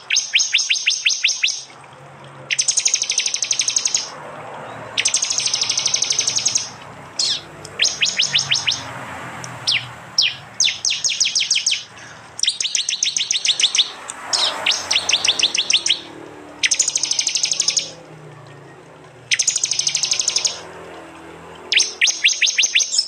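Prinia (prenjak) songbird giving its loud 'tembakan' call: a dozen or so bursts of rapid, sharp, high ticking notes, each lasting about a second and a half, repeated every couple of seconds.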